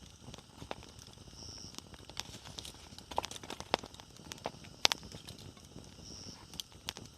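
Wood bonfire crackling: irregular sharp pops and snaps of burning firewood, the loudest a little under five seconds in, over a soft steady hiss.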